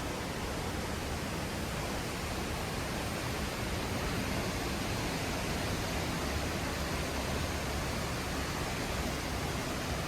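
Steady, unbroken rush of a waterfall, water dropping about 15 metres into a pool below.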